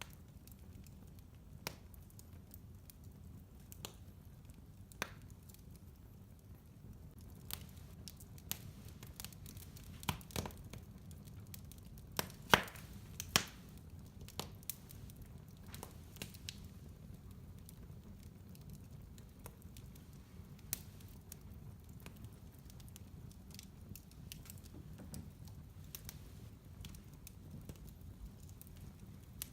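Wood fire burning in a fireplace: irregular sharp crackles and pops over a low steady rumble, with a cluster of louder pops about halfway through.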